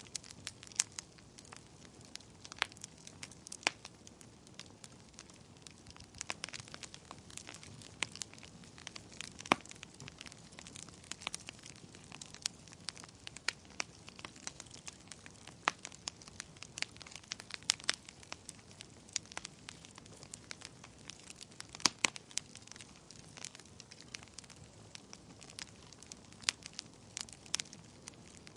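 Wood fire crackling in a fireplace: irregular sharp pops and snaps over a soft steady hiss, now and then a louder snap.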